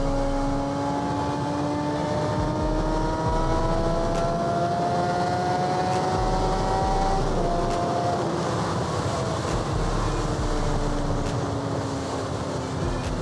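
Suzuki GSX-R600 inline-four with an M4 exhaust pulling in gear, its pitch climbing steadily for about seven seconds. Then the pitch drops suddenly and eases slowly lower, with wind rushing past the rider throughout.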